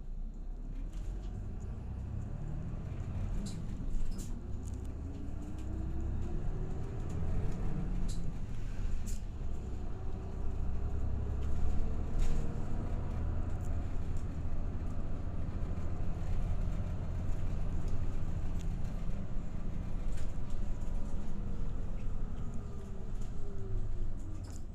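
Inside a route bus moving off and running: low engine and road rumble, with a drivetrain whine that rises in pitch over the first several seconds as the bus gets up to speed, holds steady, then falls near the end as it slows. A few light knocks and rattles from the cabin.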